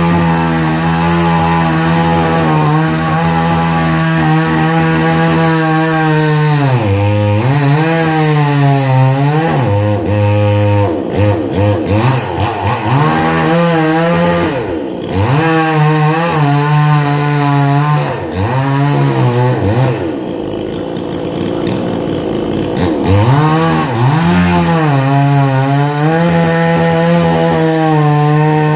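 Two-stroke chainsaw cutting through a coconut palm trunk, its engine note repeatedly dropping under load and picking back up. The engine eases off briefly about two thirds of the way through, then cuts again.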